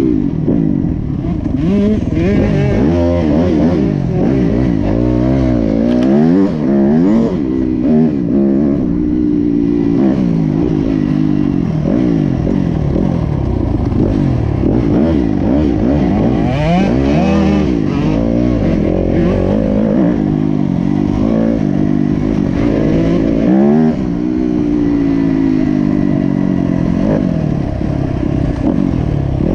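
Dirt bike engine revving up and down over and over, the pitch climbing and dropping every second or two as the throttle opens and closes through the gears.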